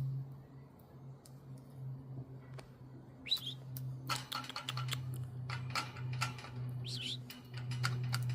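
Budgies chirping and chattering: a rising chirp about three seconds in, then a run of quick, clicky chirps and another curved chirp near the end, over a steady low hum.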